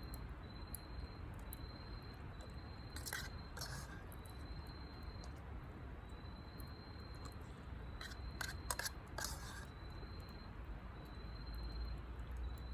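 Spoon clicking and scraping against a dish during a meal of curry, a few short strokes about three seconds in and again around eight to nine seconds in. Under it runs a steady low rumble and a faint high chirp repeating about once a second.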